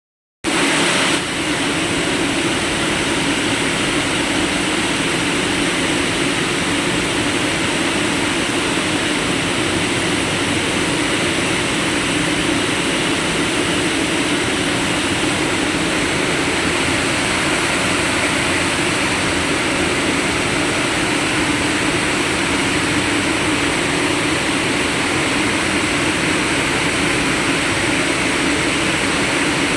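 Heavy industrial plant machinery running steadily: a loud, even din with a low hum, cutting in abruptly under half a second in.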